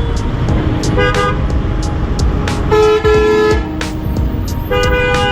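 Vehicle horns honking in stalled city traffic: a short toot about a second in, a louder, longer blast around three seconds, and another near the end, over a steady low traffic rumble.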